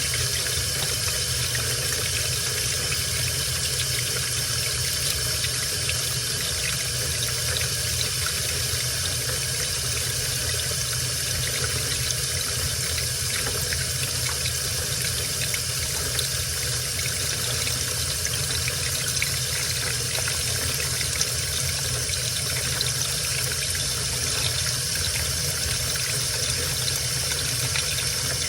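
Washing machine with water running into the drum: a steady, even rush of water.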